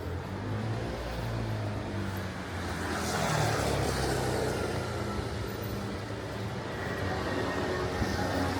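A motor vehicle running close by, with a steady low engine hum; its noise swells about three seconds in as it passes.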